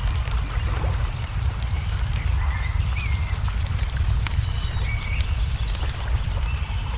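Nature ambience: a wood fire crackling with scattered sharp pops, and birds giving short chirping calls, one a longer buzzy call in the middle, over a steady low rumble.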